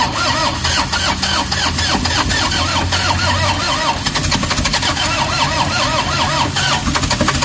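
Toyota Hiace diesel engine cranking steadily on the starter without catching: a crank-no-start, with fault code P0087 (fuel rail pressure too low) stored.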